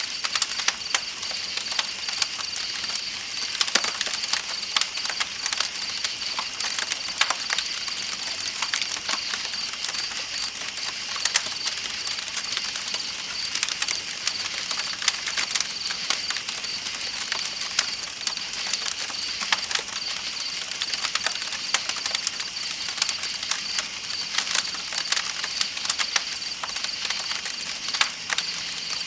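Campfire crackling with irregular sharp pops, over a steady high chirring of night insects.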